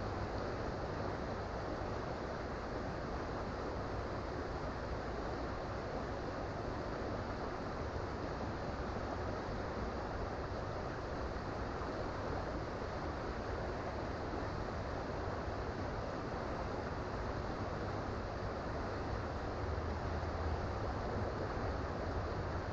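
Creek water running over rocks: a steady, unbroken rush with a low rumble underneath.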